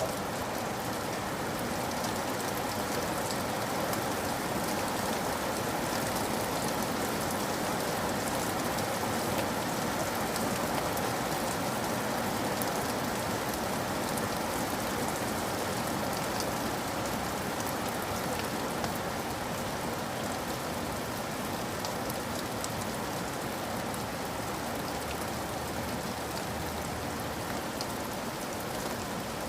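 Steady rain falling, a constant hiss with fine drop patter on surfaces.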